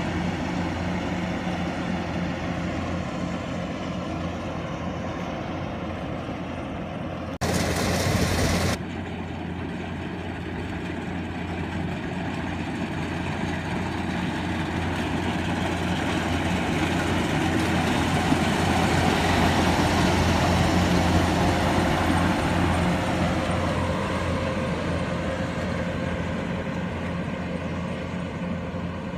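Engine of a rice-harvesting machine running steadily, growing somewhat louder in the second half. About seven seconds in there is a short loud burst of hiss-like noise lasting over a second.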